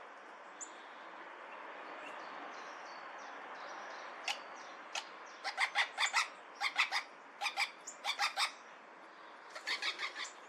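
Bird calls: a string of short, sharp calls in quick runs, starting about four seconds in and bunching up midway and again near the end, over a steady rushing noise that swells and fades in the first half.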